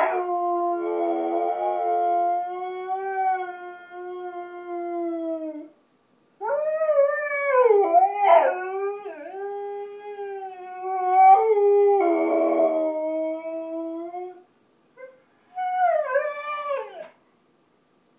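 Husky howling: one long, steady howl, then after a short break a longer howl that wavers and breaks in pitch, and two short howls near the end.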